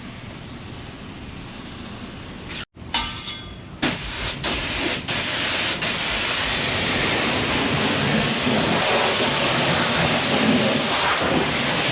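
Water spraying over a car at a car wash: a steady hiss that breaks off briefly about three seconds in and then comes back louder and denser.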